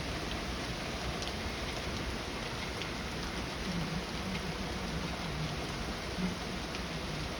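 Heavy rain pouring steadily, a dense even hiss with scattered sharper ticks of individual drops.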